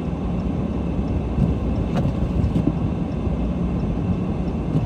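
Steady low rumble of a car idling in the snow, heard from inside the cabin, with a faint click about two seconds in.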